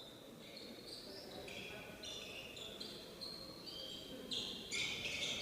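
Basketball players' sneakers squeaking on the gym court, a string of short, high squeaks one after another that grow louder near the end.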